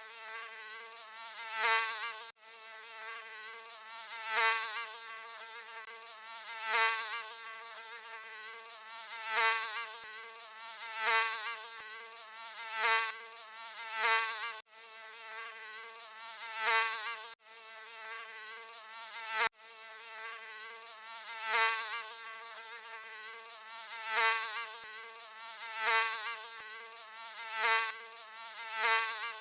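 Mosquito buzzing: a high-pitched whining hum of wingbeats that swells louder and fades back every two to three seconds, as if flying past the ear. There are a few abrupt split-second cut-outs where the recording is looped.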